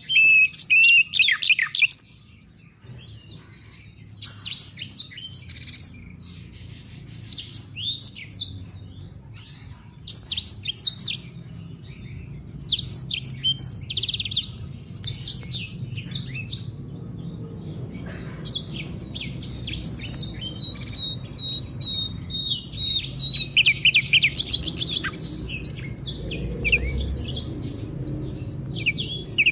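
Songbirds chirping and trilling in rapid bouts of quick, sharply sliding high notes, separated by short pauses. A thin held whistle sounds briefly about two-thirds of the way through.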